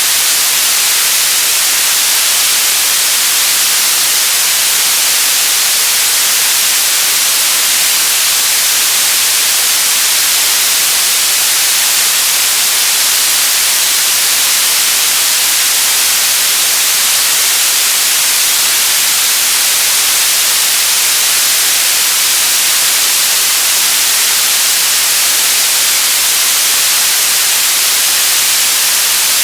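White noise sound effect: a loud, steady hiss that never changes, strongest in the treble and thin in the bass.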